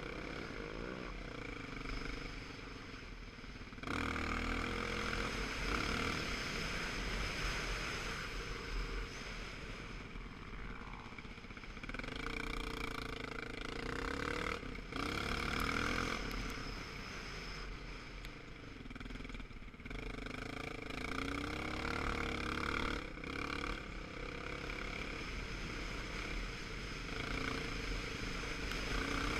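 Motorcycle engine running on the move, its pitch rising and falling, under a steady rush of noise. The sound jumps abruptly in level and character several times.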